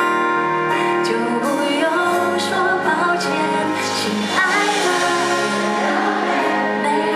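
A live band playing a Mandarin pop song, with a woman's singing voice coming in over the instruments about a second and a half in.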